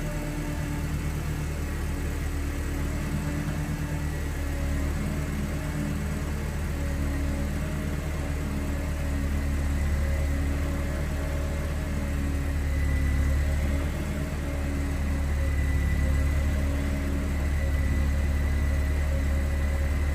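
Supercharged four-cylinder engine of a 2004 Mercedes-Benz C230 Kompressor idling steadily on a cold start, heard at the exhaust, with a thin high whine over the idle.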